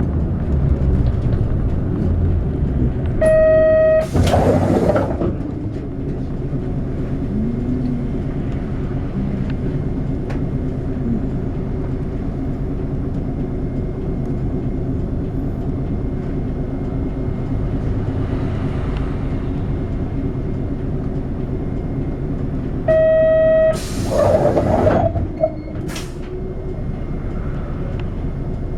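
City bus diesel engine idling at a stop. About three seconds in, a short electronic door chime is followed by a burst of air hiss as the pneumatic doors work. The same chime and hiss come again about twenty seconds later, followed by a click.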